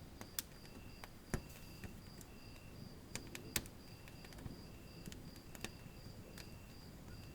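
Wood fire burning in a fireplace: a low steady rumble with scattered sharp crackles and pops, the loudest about a second and a half in and again past three and a half seconds. A faint high chirping repeats evenly, about three times a second.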